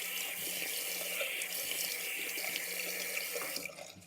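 Tap water running steadily into a bathroom sink during face washing, cutting off near the end.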